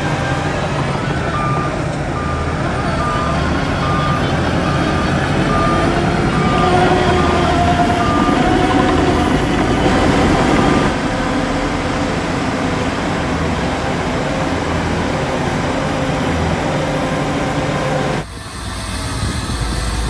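Heavy diesel earthmoving machinery running, with a reversing alarm beeping at about one and a half beeps a second for the first several seconds. The engine sound drops off abruptly near the end.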